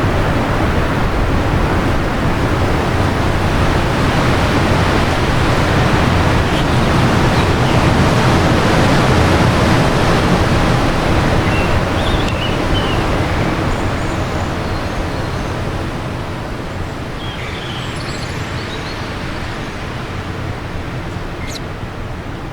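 Wind blowing steadily in a long gust that swells and then eases off over the second half, with a few faint bird chirps.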